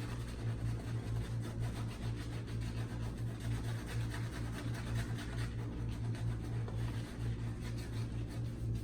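Shaving brush working a lather of Williams mug soap, a soft rhythmic scrubbing that swells and fades several times a second over a steady low hum.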